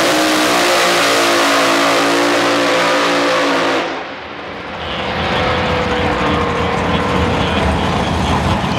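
Front-engine dragster's engine at full throttle, loud and steady, cutting off sharply about four seconds in. A lower rumble then builds, with a tone slowly falling in pitch as the car slows.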